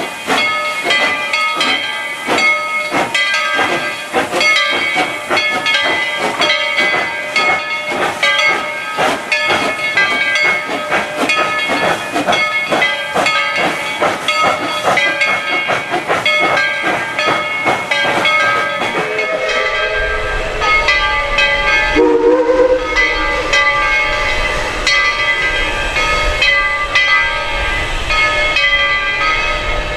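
Narrow-gauge steam locomotive working, with quick regular exhaust chuffs over hissing steam. About two-thirds of the way in, a deep rumble of the train rolling joins in, with a brief lower tone a few seconds later.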